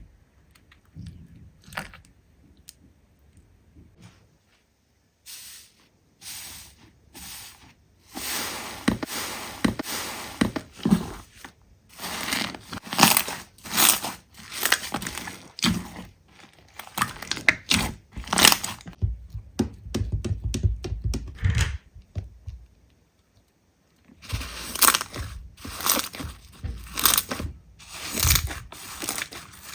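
Slime being squeezed and pressed by hand, giving irregular crackling, crunching bursts. It starts sparse, turns dense after several seconds, and stops for about two seconds before picking up again.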